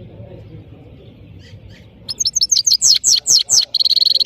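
Goldfinch singing: a few faint chirps, then about two seconds in a fast run of high twittering notes that ends in a held note.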